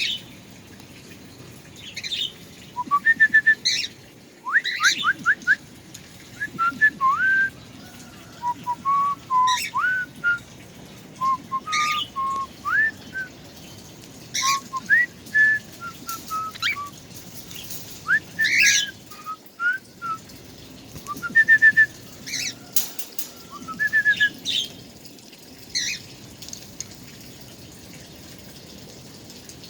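A songbird singing a varied song of short clear whistled notes, quick rising and falling slurs and sharp chirps, in bursts separated by short pauses.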